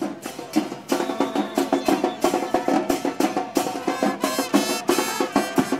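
Carnival drum group playing live: a fast, dense rhythm of drum strikes with a sustained pitched line running under it.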